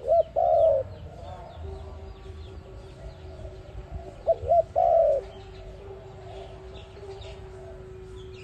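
Spotted dove cooing: a phrase of two short notes and a longer held note, given twice about four seconds apart. Faint chirps of small birds and a steady hum run underneath.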